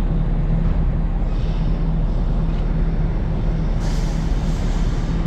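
Steady low engine drone with a constant deep hum under a rushing noise. A brighter hiss joins near the end, then the sound cuts off abruptly.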